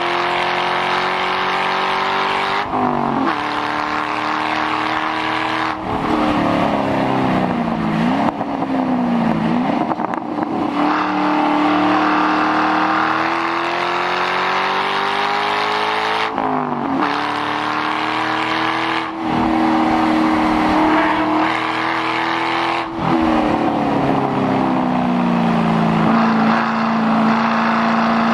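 2006 Mustang GT's 4.6-litre V8 with mufflers deleted, running hard: the revs climb steadily and drop sharply at each gear change, five times, with quick dips and rises in pitch about a third of the way in.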